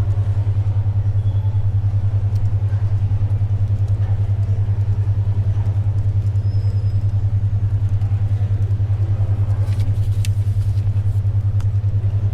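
Synthesized 10.2 Hz alpha brainwave beat: a steady low hum pulsing rapidly and evenly, about ten throbs a second. Under it sits faint library ambience, with a few small clicks and rustles about ten seconds in.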